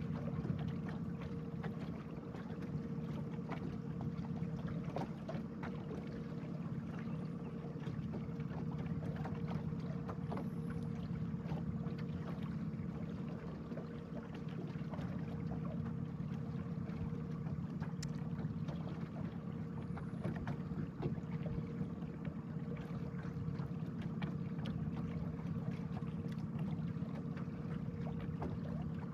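Boat motor running steadily: a constant low hum with a steady whine above it, and many faint small ticks throughout.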